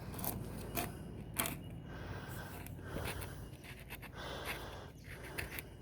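Faint scattered clicks and light scraping of things being handled, over a low steady background hiss.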